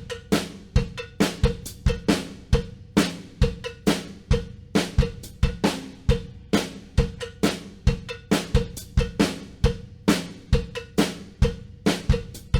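Background music: a drum-kit beat alone, with kick, snare and hi-hat hits at a steady, even tempo.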